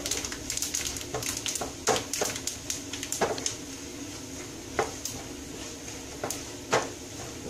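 Coconut pieces and black sesame seeds frying in ghee in a nonstick pan, stirred with a wooden spatula: a steady sizzle with many sharp pops and clicks as the sesame splutters, thick for the first three seconds or so and then thinning to a few scattered pops.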